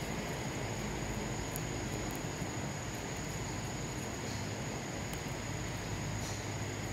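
Steady outdoor insect chorus, a constant high-pitched whine over a low, even rumble.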